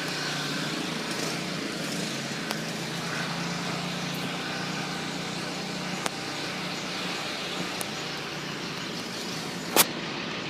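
Steady outdoor background noise with a low continuous hum under it, and one sharp click near the end.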